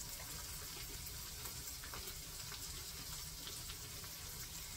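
Ground-beef onion burgers frying in a skillet on the stove: a low, steady sizzle with faint crackles.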